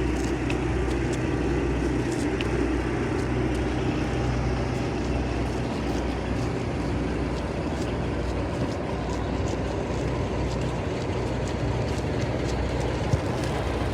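Steady rumbling, rolling noise of a passenger train in motion, heard from aboard, with a deep hum and faint light clicks scattered through it.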